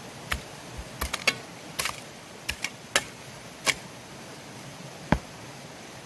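A series of short, sharp knocks and clicks at irregular intervals, some in quick runs of two or three, over a steady hiss.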